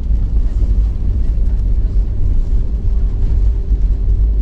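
Aircraft landing: a loud, steady low rumble, with a steady engine whine coming in about a second and a half in.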